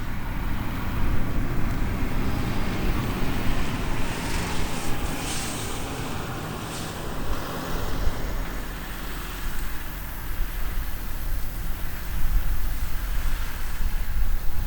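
Heavy harvest machinery running: a steady diesel engine drone with a low hum and a broad rushing noise over it.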